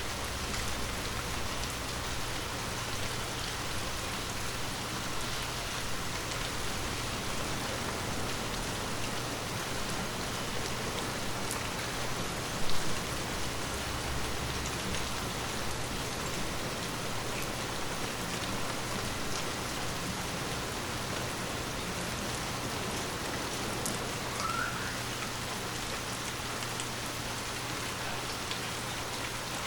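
Steady rain falling, with scattered raindrops ticking on a surface. Just under halfway through there is one brief, louder burst.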